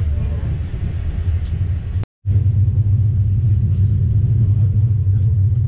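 Steady low rumble of a moving passenger train heard inside the carriage. It cuts out completely for a moment about two seconds in, then carries on unchanged.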